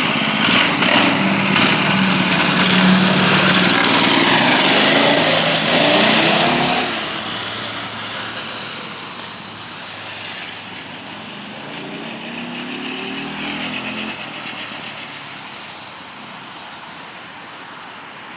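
Single-cylinder four-stroke 212cc minibike engine revving up and down, loud for about the first seven seconds, then falling away sharply as the bike moves off. It swells again briefly with another rev about twelve seconds in and then fades to a faint running sound.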